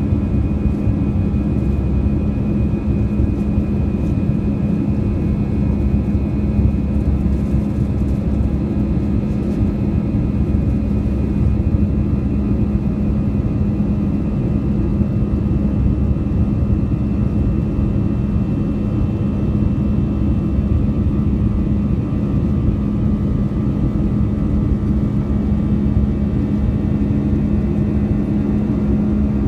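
Peach Airbus A320 jet engines running steadily after takeoff: a constant, unchanging drone with a strong low hum.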